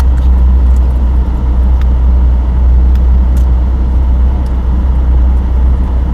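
Ferrari engine idling steadily, heard from the open-top cockpit of the stationary car.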